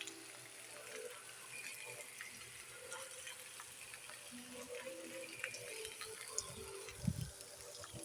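Heavy rain falling with a steady hiss, with water running and gushing, and a low thump about seven seconds in.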